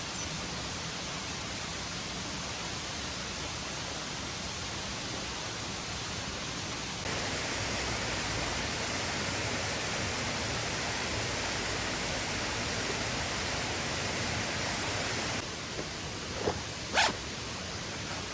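Steady rushing of falling water from a waterfall and heavy rain, growing louder for a stretch in the middle. Near the end two short, sharp sounds cut through, the second louder.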